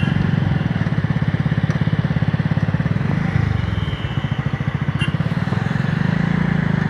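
Sonalika 40 HP tractor's diesel engine running with a steady low, pulsing throb; its note dips and wavers briefly about three to four seconds in, then settles.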